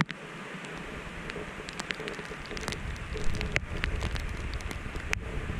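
Wind and rain: a steady hiss of rain with scattered drops ticking close by, and low wind rumble on the microphone that grows stronger about halfway through.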